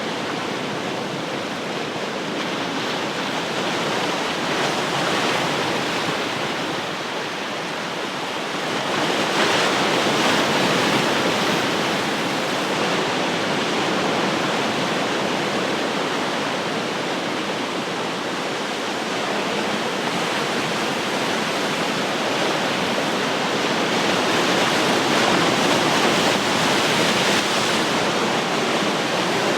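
Ocean surf: waves breaking and washing on the shore in a continuous rush, swelling louder about a third of the way in and again near the end.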